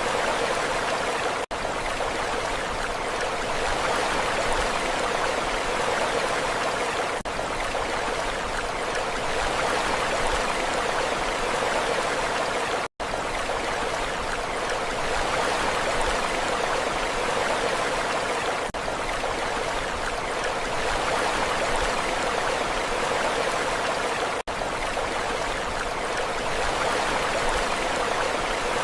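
Steady rushing water, even in level without the rise and fall of breaking waves; it cuts out for an instant about halfway through.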